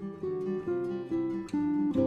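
Background music: a solo plucked guitar playing a classical melody, a new note struck about every half second.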